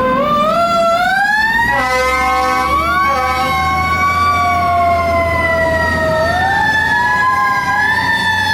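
Fire truck siren winding up over the first two seconds, then wailing slowly up and down. Two short horn blasts sound at about two and three seconds in, over the low running of the truck's engine.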